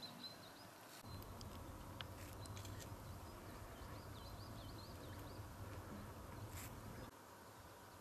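Faint outdoor ambience: small birds giving short high chirps, with a low wind rumble on the microphone from about a second in until near the end and a few soft clicks.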